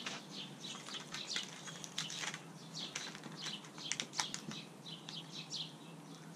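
Small songbirds chirping over and over, a rapid run of short, high, falling chirps, with a few light clicks mixed in.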